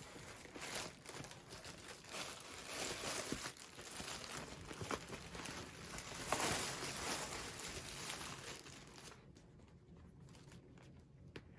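Packaging crinkling and rustling as it is handled, with some tearing, fading down near the end.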